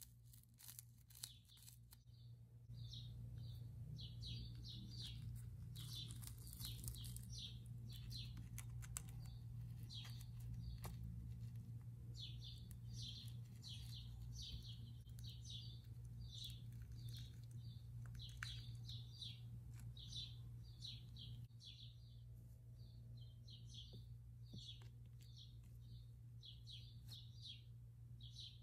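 Small birds chirping in quick repeated runs over a faint low steady hum, with a few crinkles of a small plastic snack packet being handled in the first couple of seconds.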